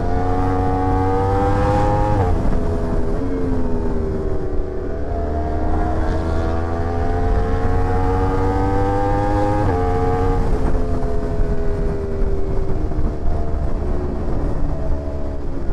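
Sport motorcycle engine pulling hard under acceleration. Its pitch climbs steadily and drops suddenly twice, about 2 seconds in and about 10 seconds in, as it shifts up, then eases down near the end. A steady low rumble runs underneath.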